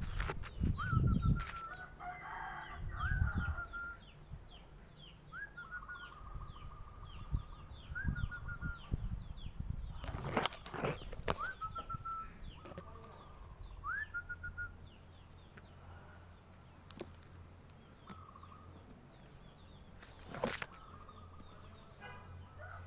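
Zebra dove cooing repeatedly: each phrase is a rising note followed by a quick run of short clipped notes, coming every two to three seconds. A smaller bird chirps rapidly behind it, and two sharp knocks come about halfway through and near the end.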